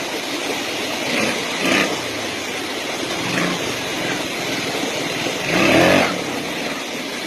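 Motocross dirt bike engines revving in short surges over a steady background of engine noise, the loudest surge about five and a half to six seconds in.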